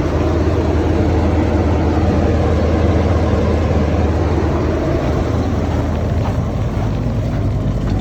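1976 Chevrolet 454 big-block V8 running at a steady fast idle just after a cold start in the minus 30s, its exhaust carrying a small leak near the muffler.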